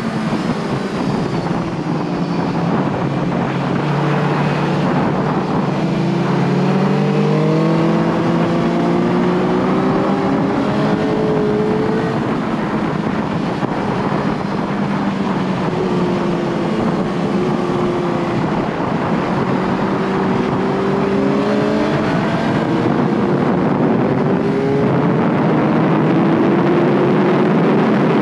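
Motorcycle engine heard on board at speed, its pitch climbing in long pulls with drops between, over steady wind rush.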